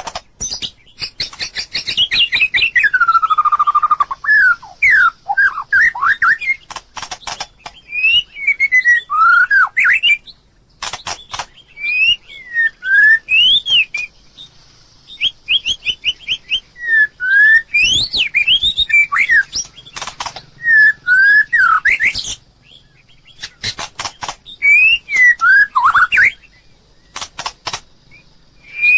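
White-rumped shama singing: varied phrases of clear whistled notes sliding up and down, mixed with quick runs of dry clicking notes, broken by short pauses.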